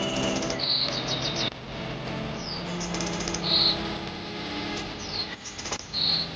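Small songbirds chirping, the same quick trill-and-chirp phrase coming three times, over a steady rush of flowing water.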